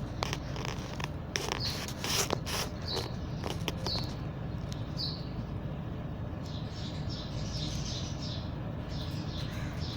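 Small pet parrots chirping: a few short high chirps with scattered clicks in the first half, then a busy run of quick chirps over the last few seconds, over a steady low hum.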